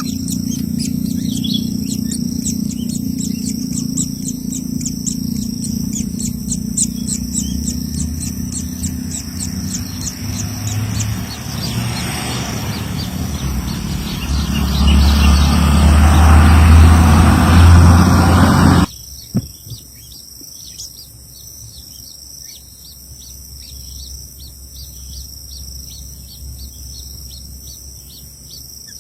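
A bird chirping in rapid repeated high notes over a steady high-pitched insect drone, with a heavy low rumble of wind or handling on the microphone that grows loud and then cuts off abruptly about two-thirds of the way in.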